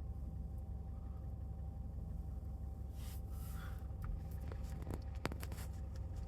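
Quiet background: a low steady rumble with a faint steady hum, a brief faint hiss about three seconds in, and a few faint ticks about five seconds in.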